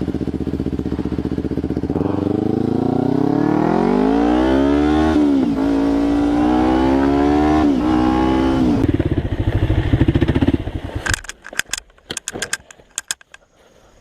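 Motorcycle engine accelerating through the gears: its pitch climbs, drops sharply at two shifts and climbs again. About eleven seconds in the engine sound cuts off suddenly, followed by a scatter of sharp knocks and clatter.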